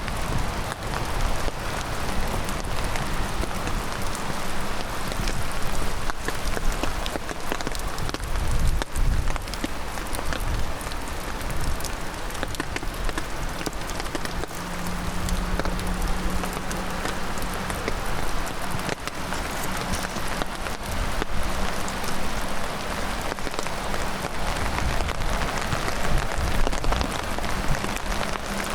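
Heavy rain falling steadily, a dense patter of drops hitting close by over a low rumble.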